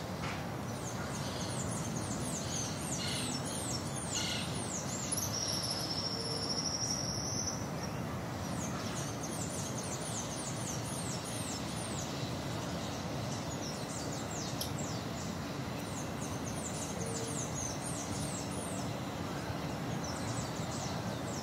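Rural village morning ambience: a steady wash of background noise with many short, high falling bird chirps throughout and one longer held high whistle about six seconds in.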